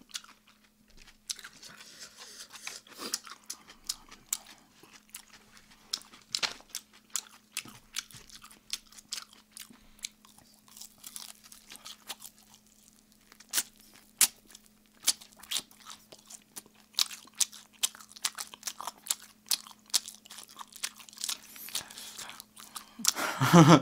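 Close-miked crunching and chewing of crispy sauced fried chicken (Kyochon Red Combo drumsticks and wings), bitten from chopsticks, giving irregular sharp crackles throughout.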